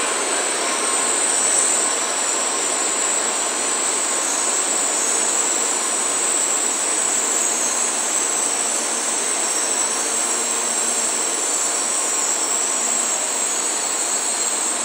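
N700 series Shinkansen train moving slowly alongside the platform as it pulls in. It makes a steady rushing rolling noise with a high hiss over it, with no sharp events.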